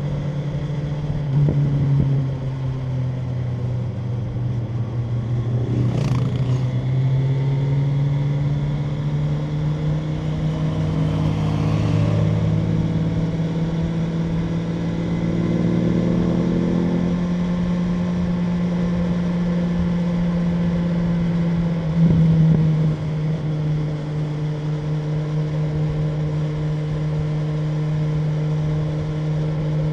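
BMW M1000R Competition's inline-four engine running under way at fairly steady revs, its pitch drifting up and down a little. There is a short sharp burst about six seconds in and another just after twenty-two seconds.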